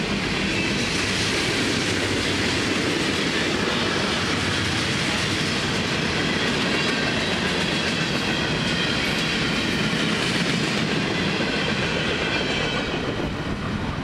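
Florida East Coast Railway freight cars, tank cars and centerbeam flatcars, rolling past: a steady rumble and clatter of steel wheels on the rails, with faint high steady tones over it. It begins to drop off near the end as the last car goes by.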